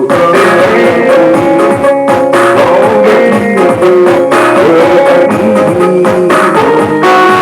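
Live band music with a steady beat, instruments and some singing, played at a food stall.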